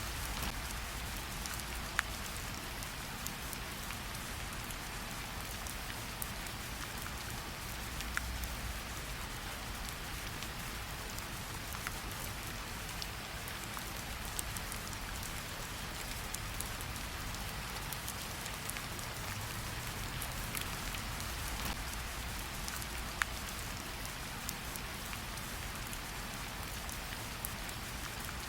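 Gentle rain falling on tree leaves: a steady patter with scattered single drops dripping off the leaves, a few of them sharper and louder.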